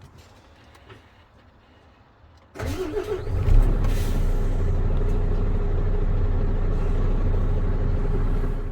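2017 MAN 26.320 truck's diesel engine cranked over and catching about three seconds in, then idling steadily. The sound cuts off abruptly near the end.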